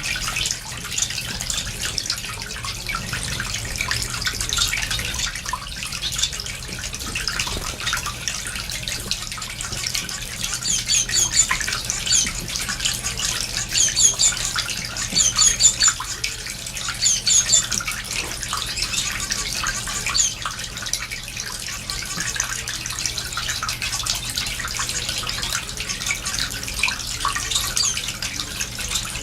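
A cage of small finches (zebra finches, society finches and Gouldian finches) chattering continuously with many short high chirps, with a run of louder repeated call notes in the middle.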